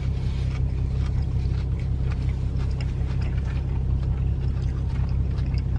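Steady low rumble inside a parked car with its engine running, with a few faint light clicks.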